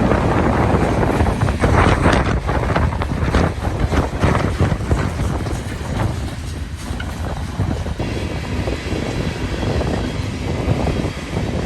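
Freight train rolling past, cars rumbling and clattering on the rails, with wind buffeting the microphone.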